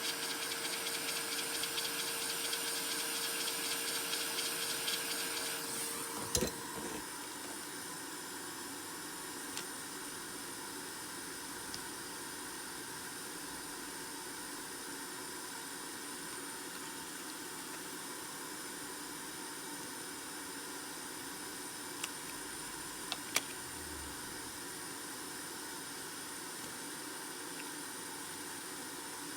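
Steady machine hiss with a thin whine, which stops about six seconds in with a click. A slightly quieter steady hiss follows, with a few small clicks.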